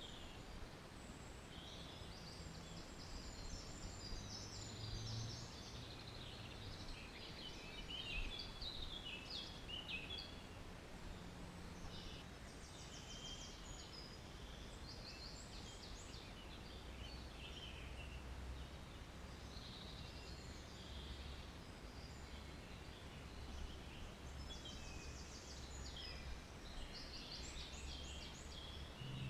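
Faint birdsong: short chirps, trills and quick repeated notes from wild birds, over a low steady background hiss.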